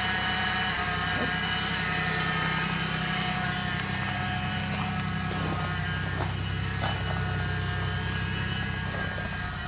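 Vehicle engine idling steadily on a cold night, a few minutes after a cold start.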